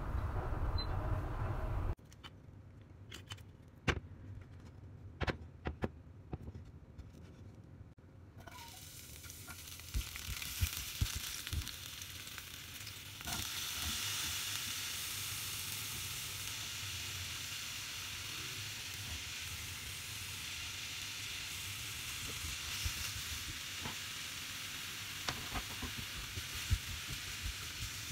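Diced zucchini, garlic and oyster mushrooms sizzling in a hot frying pan, with occasional taps and scrapes of a spatula as they are stirred. A few sharp taps come first; the sizzle starts faintly about a third of the way in, jumps louder about halfway through and then holds steady.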